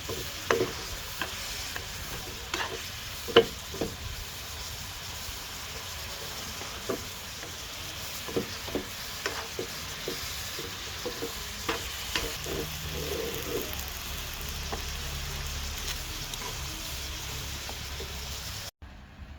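Tonkin jasmine flowers stir-frying in a pan: steady sizzling with a spatula clicking and scraping against the pan. The sound cuts off abruptly near the end.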